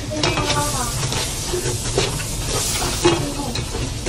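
Garlic and spring onions sizzling in an oily sauce in a frying pan, with a spatula stirring and scraping against the pan.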